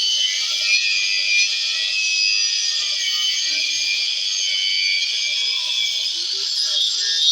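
Handheld electric grinder (lixadeira) running at speed with a steady high whine whose pitch shifts slightly, as it works material away from the wooden subwoofer box.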